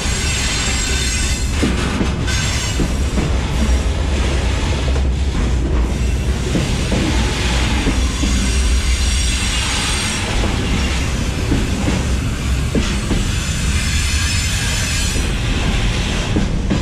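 Freight wagons rolling directly overhead, heard from between the rails beneath them: a loud steady rumble of steel wheels on rail with repeated clacks as the wheelsets pass. A high-pitched wheel squeal comes and goes several times.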